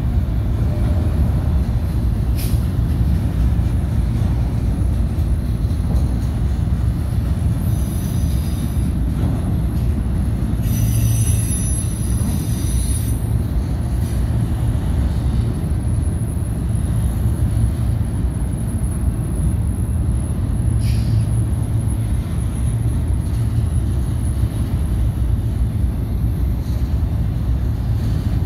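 BNSF autorack freight cars rolling past: a steady heavy rumble of steel wheels on the rails, with high-pitched wheel squeals about eight seconds in and again from about eleven to thirteen seconds.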